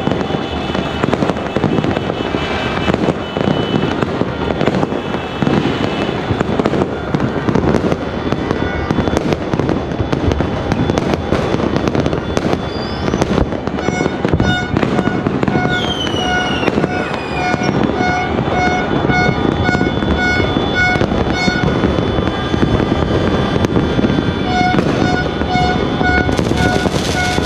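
Dense, continuous crackling and popping of New Year's fireworks and firecrackers across a neighbourhood, with a couple of whistling glides about halfway through. From about halfway, a repeated beeping tone runs under the crackle.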